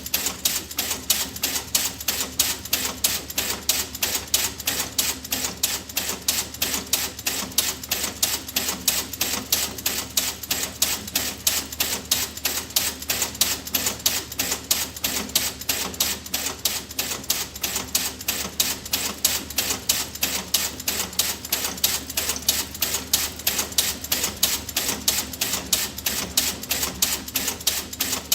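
Tick-tock clacker toy (two balls on a string) clacking steadily, about four sharp clicks a second.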